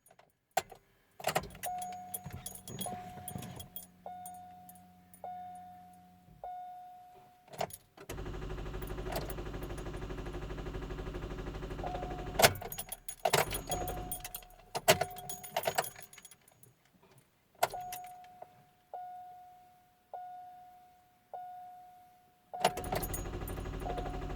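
2005 Chevrolet Cobalt that won't start: a repeating chime dings about once a second, keys rattle in the ignition, and two bursts of rapid clicking from the car's electrics come in the middle, the "machine gun" sound of the no-start. Steady hums run for a few seconds around the middle and again near the end.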